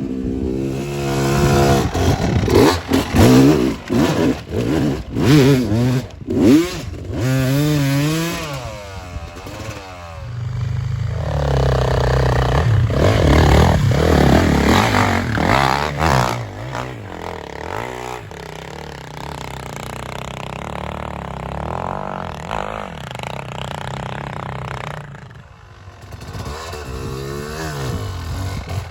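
Off-road motorcycle engine revving up and down repeatedly during the first ten seconds, then running more steadily under throttle.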